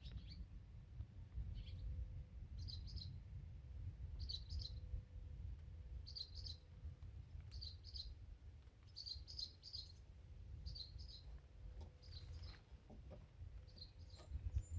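Faint high bird chirps, in quick groups of two or three notes repeating every second or two, over a low steady rumble.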